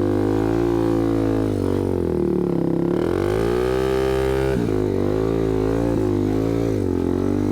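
Yamaha TW200 motorcycle's single-cylinder four-stroke engine running while riding, the revs rising and falling with the throttle. About halfway through the revs climb for over a second, then drop suddenly.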